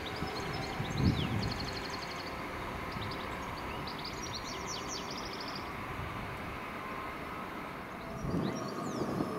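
A train running by with a steady low rumble, a louder thump about a second in and another swell near the end. Small birds sing in quick high trills over it.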